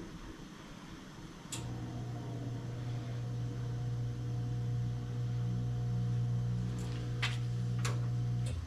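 Wheel balancer spinning a motorcycle wheel: it clicks on about a second and a half in, runs with a steady low hum for about seven seconds, and stops just before the end, a measuring spin to find how much weight the wheel still needs. A few sharp clicks sound near the end.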